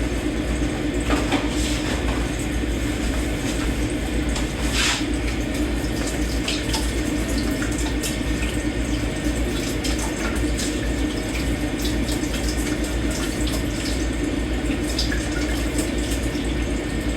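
Kitchen tap running steadily into a sink while dishes are washed by hand, with a few short clinks of dishes or cutlery, the clearest about a second in and about five seconds in.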